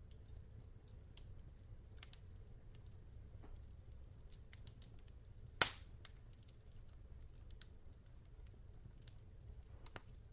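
Log fire crackling, with scattered small pops and one loud sharp crack a little past halfway, over a low steady rumble.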